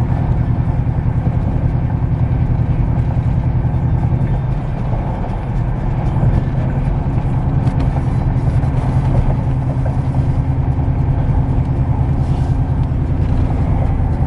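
GMC pickup truck's engine and road noise while driving: a steady low drone that eases off briefly about five seconds in, then picks back up.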